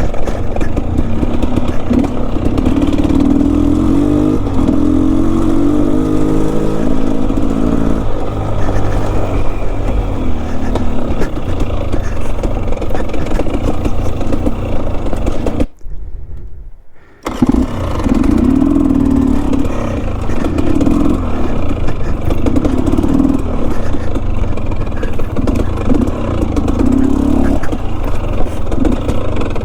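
Enduro dirt bike engine revving up and down under load on a steep trail, with knocking and clatter from the bike. About halfway through, the sound drops out suddenly for about a second and a half, then the engine is back.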